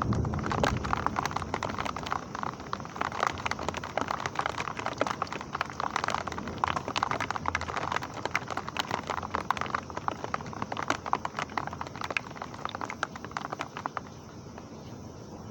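Heavy rain falling, with a dense patter of sharp drops striking a hard surface over the steady hiss. It eases and grows quieter near the end.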